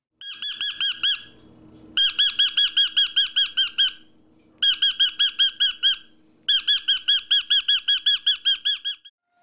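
Eclectus parrot calling in four quick, rattling series of high squeaky notes, about eight notes a second.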